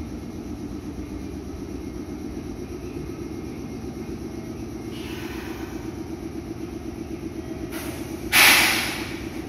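Meitetsu 6500 series electric train pulling slowly into the platform with a steady rhythmic hum. About eight seconds in, a loud burst of air hiss lasting about a second as the train comes to a stop.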